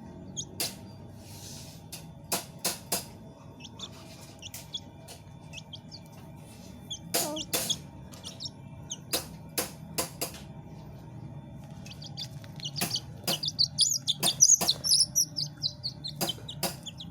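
Birds chirping in short high notes, growing busier and denser in the last few seconds, over a steady low hum. Sharp clicks or taps come through repeatedly and are the loudest sounds.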